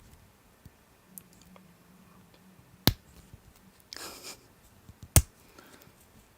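Two sharp clicks a little over two seconds apart, with a short rustle between them, over quiet room tone.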